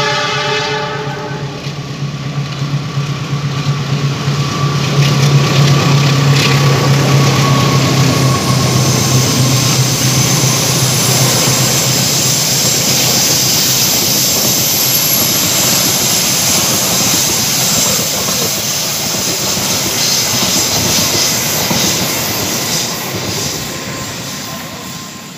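GE CC206 diesel-electric locomotive hauling the Argo Wilis passenger train past. The tail of a horn blast dies away in the first second or so. Then comes the locomotive's engine drone as it goes by, followed by the steady rushing rumble of the carriages' wheels on the rails, which fades out near the end.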